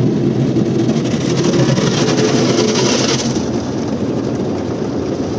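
Automatic car wash machinery running, heard from inside the car's cabin: a steady low rumble, with a loud hissing rush over the car body from about a second in until just after three seconds.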